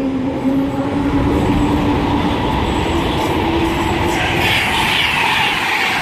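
Electric express train passing at speed: a Virgin Trains Class 390 Pendolino rushing through, a steady rumble with a motor whine that rises slightly in pitch and a hissing rush building about two thirds of the way in.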